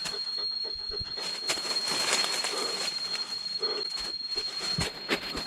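A steady high-pitched insect drone over irregular crackling and rustling of footsteps pushing through jungle undergrowth.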